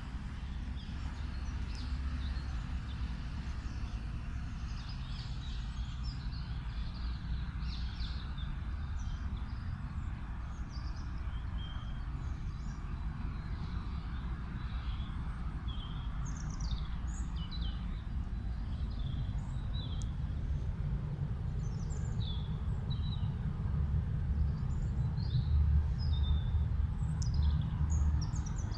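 Small songbirds chirping and calling in many short, high notes, over a steady low rumble that gets louder near the end.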